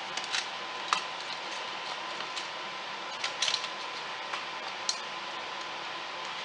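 Scattered light clicks and knocks of a wooden board being shifted and set in a pocket-hole jig, with a small cluster of taps about three and a half seconds in, over a steady faint hiss.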